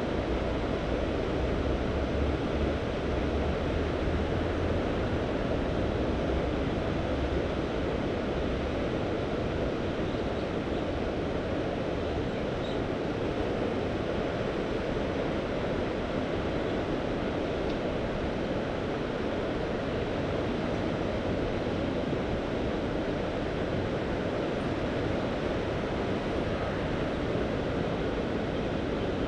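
Mediterranean Sea surf: waves washing in a steady, continuous rush. A low wind rumble on the microphone is added during the first few seconds.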